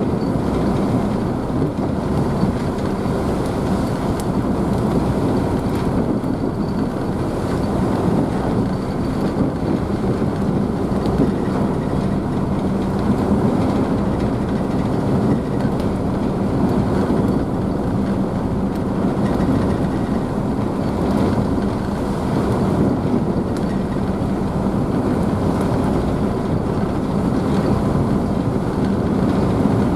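Car ferry's engines running with a steady low drone and hum, mixed with the rushing and splashing of the churning wake, as heard from the rear deck.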